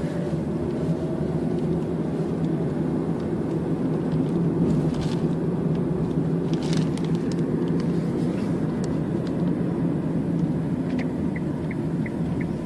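Steady low drone of a moving vehicle's engine and road noise, with a few faint clicks. About eleven seconds in, a rapid regular ticking begins, roughly three ticks a second.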